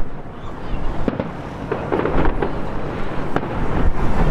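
Fireworks display heard from a distance: a dense run of sharp bangs and crackles over a low rumble, quieter briefly just after the start and then building again.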